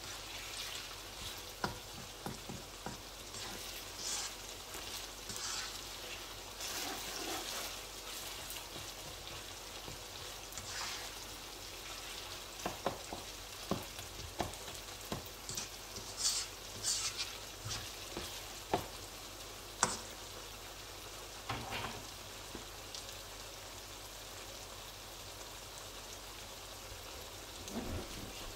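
Onion, tomato and spice masala frying in oil in a wok with a steady sizzle. A spatula clicks and scrapes against the pan as it is stirred, most often in the middle stretch.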